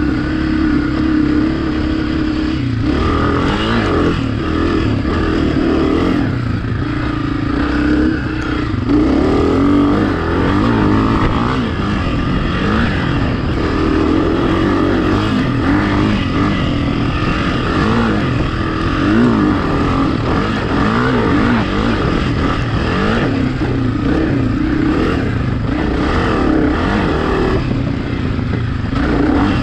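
Dirt bike engine running under riding load, its pitch repeatedly rising and falling as the throttle is opened and closed.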